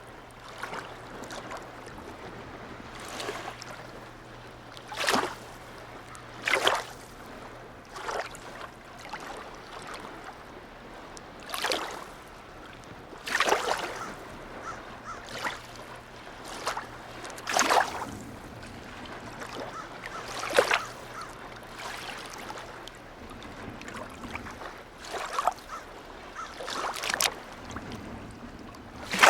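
Small waves lapping and slapping against the harbour edge or moored boats in irregular splashes every one to three seconds. A faint steady low hum runs underneath and fades out about four-fifths of the way in.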